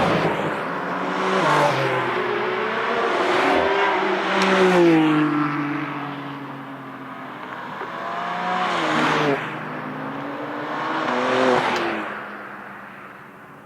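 Porsche 992 GT3 RS's naturally aspirated flat-six, fitted with a Brillsteel Edizioni Corsa aftermarket exhaust, revving hard on track. The pitch climbs and falls in several loud surges, then the sound fades away near the end.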